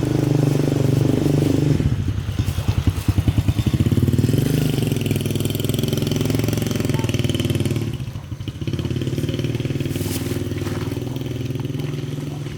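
Motorcycle engine running close by, pulsing unevenly a couple of seconds in and dipping briefly about eight seconds in before carrying on steadily.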